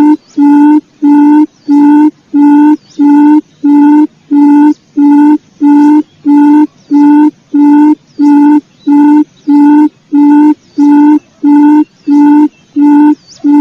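Recorded quail lure call played on a loop: a low hooting note repeated at an even pace, about three notes every two seconds, each one identical.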